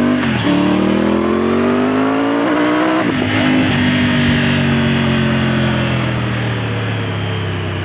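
Triumph Tiger 900 GT's three-cylinder engine through an aftermarket Arrow silencer, accelerating through the gears. The revs climb and drop with an upshift about half a second in, climb again and drop with another upshift about three seconds in, then slowly fall away.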